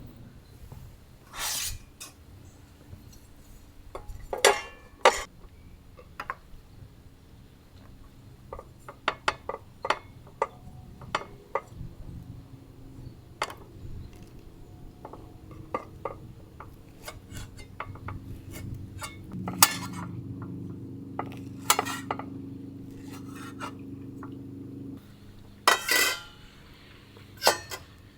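Camp cookware and utensils being handled: scattered clinks and knocks of metal and dishes, a handful of them sharper and louder, over a low steady hum.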